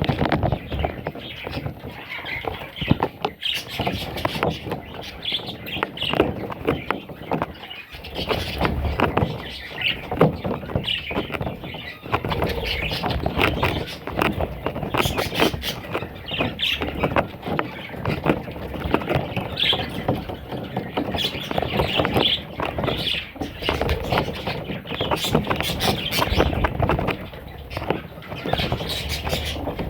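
Budgerigars chirping and squealing without a break, many short overlapping calls at once.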